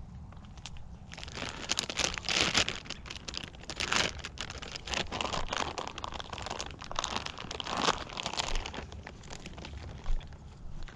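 Dense, irregular crinkling and crunching handling noise, starting about a second in and easing off near the end.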